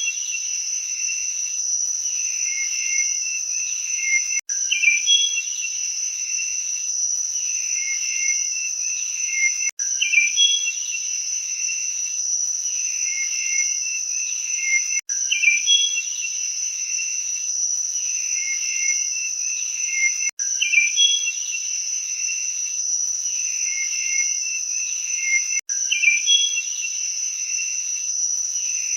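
Steady, high-pitched cricket-like insect chorus, with a short run of lower chirps repeating about every five seconds. The sound is a short loop that cuts out for an instant at each repeat.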